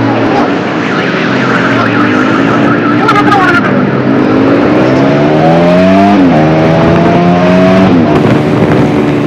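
Motorcycle engine accelerating under the rider, its pitch climbing and then dropping sharply at two gear changes in the second half before it settles to a steady cruise, with constant road and wind noise.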